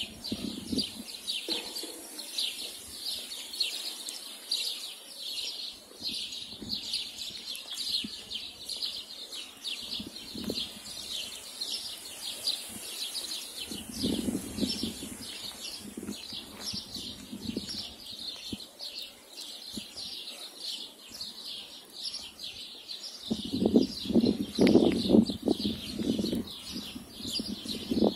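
Small birds chirping steadily in rapid, high repeated notes. Near the end a louder, lower-pitched noise comes in over them.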